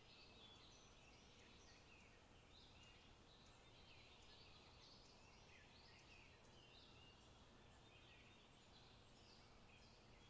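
Faint birdsong in a forest: several small birds chirping and warbling continuously, over a low steady background hum.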